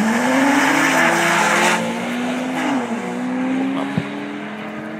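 Sports car engines accelerating hard from a standing start, revving up and dropping in pitch at each upshift, with a loud hiss for the first couple of seconds. There is a sharp click about four seconds in.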